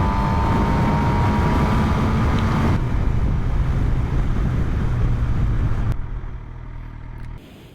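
Suzuki motorcycle running under way, its engine drone under a loud rushing noise, with a faint rising whine over the first few seconds. The sound drops about six seconds in and cuts off abruptly near the end.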